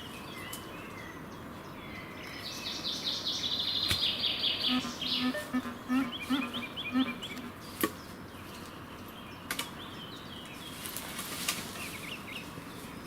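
Songbirds singing in woodland: a rapid high trill a few seconds in, then a run of short chirps, with a few sharp clicks in between.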